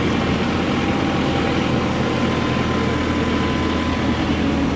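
A nearby motor vehicle's engine running steadily, a low hum over road noise.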